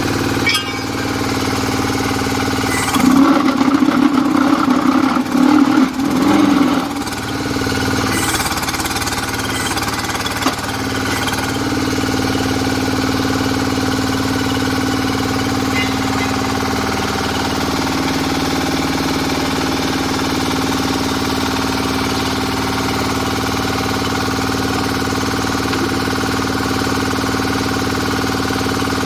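Diesel engine of a QTJ4-40 hydraulic interlocking block-making machine running steadily, with a louder, rougher stretch from about three to seven seconds in.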